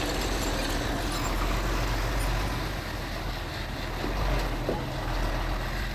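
Heavy diesel earthmoving machinery running steadily, a low engine rumble without sharp knocks or clanks.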